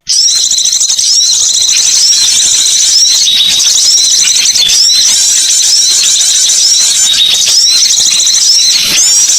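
A dense chorus of many small songbirds twittering high-pitched and without a break, with one call note repeating over it about once a second: a bird-trapping lure recording.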